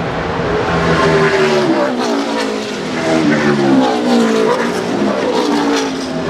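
NASCAR Nationwide stock cars' V8 engines at racing speed, the engine note rising and dropping again and again as the cars accelerate and shift through the corners of the road course.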